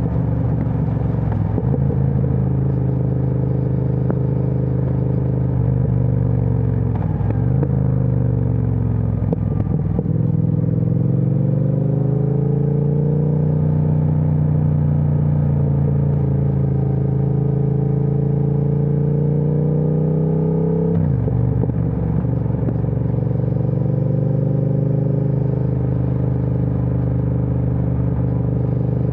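Triumph Speed Twin 1200's parallel-twin engine running through an aftermarket Vance & Hines exhaust while riding. The note dips briefly a few times early on, rises steadily in pitch as the bike accelerates, holds a cruising note, then falls sharply about two-thirds of the way through as the throttle is closed.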